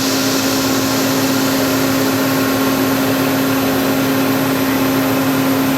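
Mori Seiki Frontier L1 CNC lathe spindle running steadily at about 2,200 rpm, a constant hum over an even whirring noise.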